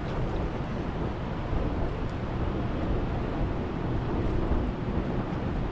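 Jet boat's engine running out on the river, a steady low drone under wind noise on the microphone.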